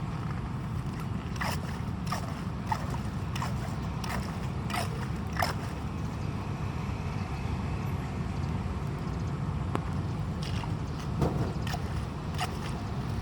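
Steady rumble of rain and running floodwater, with scattered short splashes and scrapes, most in the first half and a couple more near the end.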